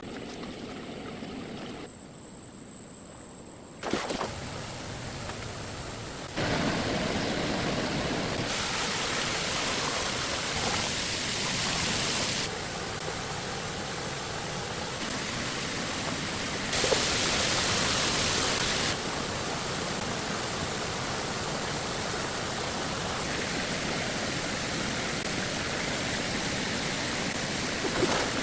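Rushing water of a waterfall and stream, a steady noisy roar that jumps abruptly in loudness and tone every few seconds.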